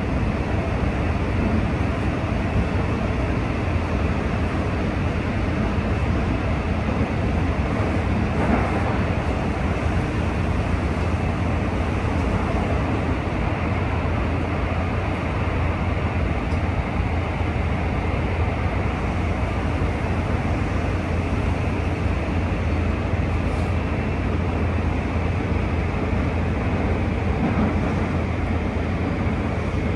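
Steady running noise inside the cabin of a JR West 323 series electric train: a constant low rumble and hum from the wheels and traction equipment.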